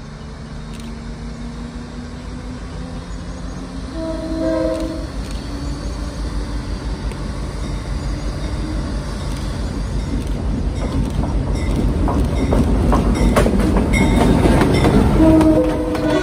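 Freight train approaching and passing close by: the diesel locomotive's multi-chime air horn sounds a short blast about four seconds in and again near the end. Meanwhile the engine rumble and the clatter of the cars' wheels grow steadily louder, loudest as the gondola cars roll past.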